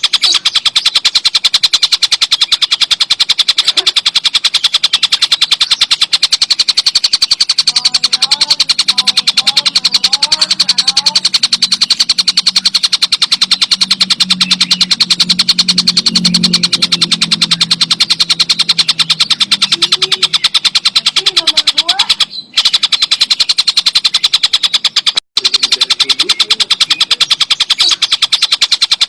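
Tengkek buto kingfisher calling: a fast, even rattle of harsh notes, many per second, running on without a pause except for two brief dropouts past the middle. A steady low hum underlies it for several seconds in the middle.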